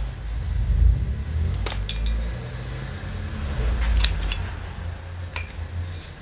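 Metal parts clinking as they are handled on the bench, several short sharp clicks over a low rumble.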